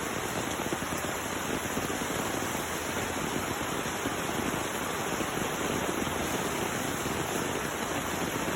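Heavy tropical downpour: rain pouring steadily in a dense, unbroken hiss.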